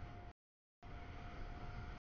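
CSX double-stack container freight train rolling through a grade crossing: a low rumble with a steady high tone over it. The audio drops out to complete silence for about half a second near the start.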